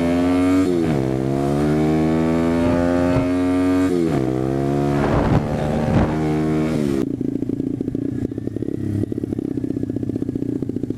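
SSR 125TR pit bike's single-cylinder 125cc engine accelerating hard from a drag-race start, its pitch climbing and dropping at gear changes about half a second and four seconds in. About seven seconds in the revving stops abruptly, leaving a lower, steady engine sound.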